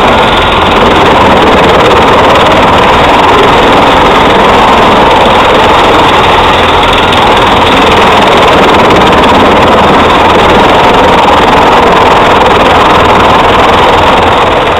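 Truck-mounted drum chipper running, its drum driven by the truck's MAN engine: a loud, steady machine noise that begins to fade near the end.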